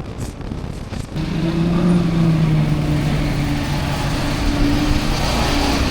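A motor vehicle's engine runs steadily, with a low drone that sets in about a second in, over road and wind noise.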